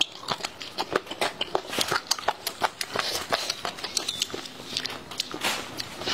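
A person chewing and biting food close to the microphone: a quick, irregular run of mouth clicks and smacks.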